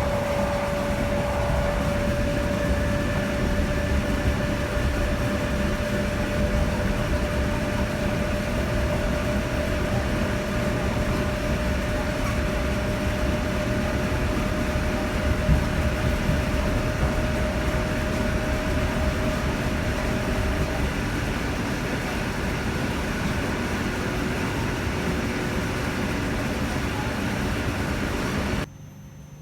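Electric suburban train running along the line: a steady rumble and rattle with a thin steady whine that fades out about two-thirds of the way through. The sound cuts off abruptly near the end.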